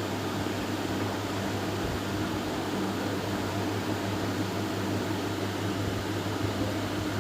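Steady electric hum with an even hiss, like a running fan or other appliance.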